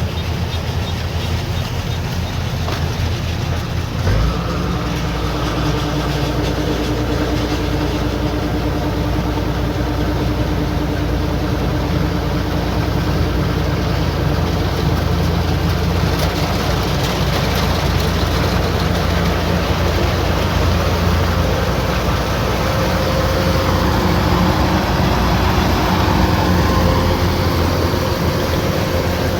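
Kubota combine harvester running steadily, its engine and threshing machinery making a continuous mechanical drone. A short thump comes about four seconds in, after which a steady hum joins.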